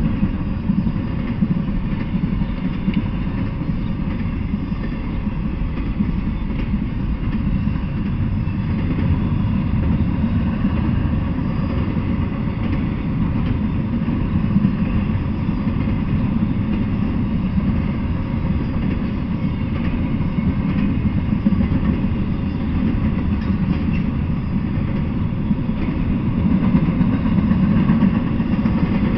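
Double-stack intermodal freight train of container well cars rolling past, a steady low rumble of wheels on rail.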